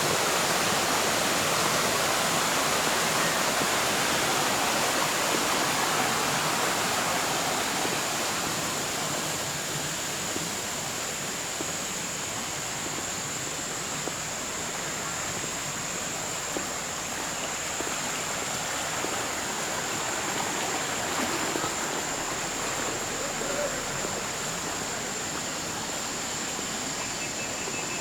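Shallow stream water rushing and splashing over rocks, a steady rush that eases slightly after about eight seconds.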